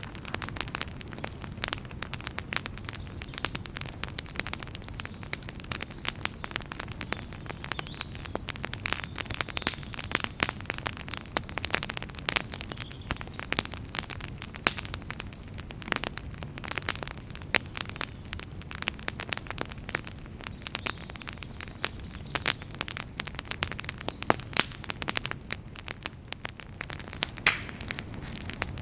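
Wood fire crackling: dense, irregular pops and snaps over a low steady rumble of the flames.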